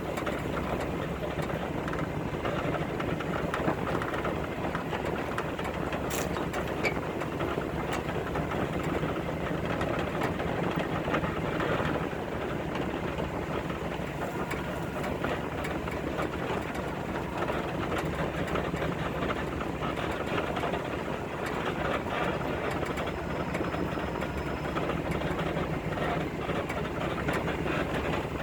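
Chevy vehicle's engine running steadily at low speed while driving over a rough dirt and mud trail, with occasional knocks and rattles.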